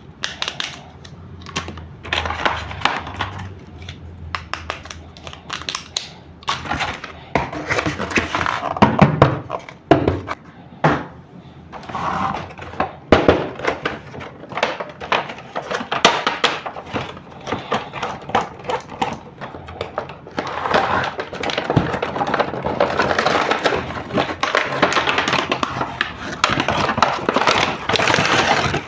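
Plastic toy playset pieces being handled and fitted together: irregular clicks, taps and knocks, with stretches of rustling between them.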